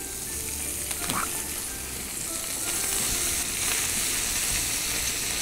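Water spinach sizzling as it is stir-fried in hot oil in a pan and stirred with wooden chopsticks. The sizzle grows louder a few seconds in, as the leaves go in on top of the stems.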